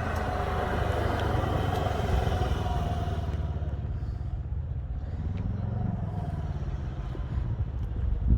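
Motor vehicle engine running with road noise while driving, its engine note rising and then falling about five to six seconds in.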